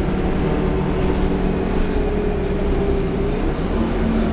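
Scania K230UB bus's DC9 five-cylinder diesel engine running with a steady drone; a further tone comes in near the end.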